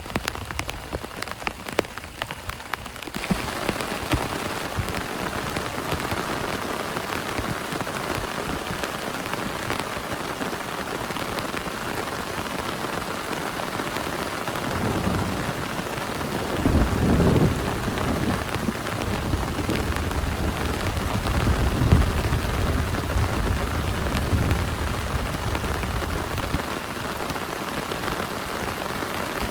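Heavy rain: for about three seconds separate drops patter, then a dense, steady downpour sets in. Thunder rumbles low twice, around the middle and again a few seconds later.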